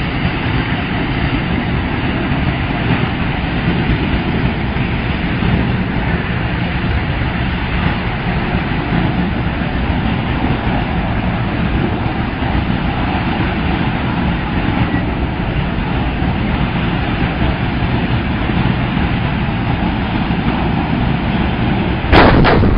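Steady road traffic noise, then near the end a sudden loud bang across the whole range, with louder noise continuing after it: the propane truck exploding.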